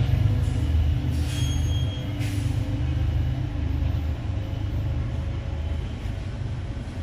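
Commuter rail diesel train rumbling through the station cut below, slowly fading, with a short hiss about a second in.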